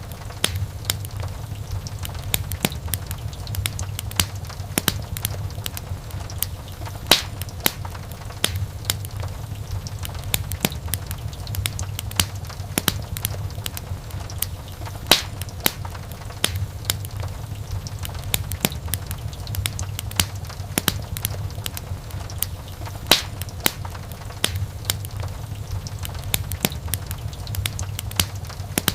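Wood fire burning in a fireplace: dense, irregular crackling with sharper pops every few seconds over a steady low rumble of the flames.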